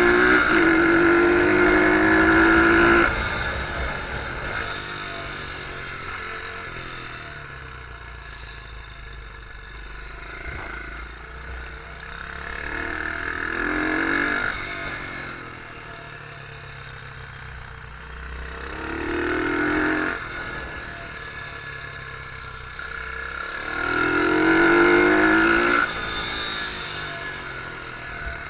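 Beta R150 pit bike engine heard on board, revving up hard under acceleration, then dropping sharply to a quieter, lower note as the throttle is shut. This happens about four times in turn as the bike runs round the track.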